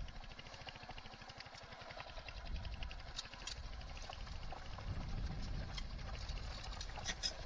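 Motorcycle engine running at low speed, a faint low rumble with an even beat of firing pulses.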